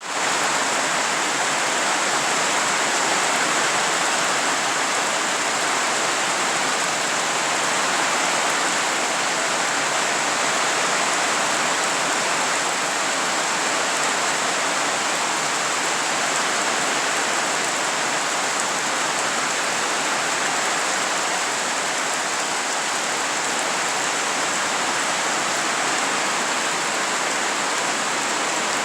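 Steady, heavy rain falling, an even hiss of rain on surfaces.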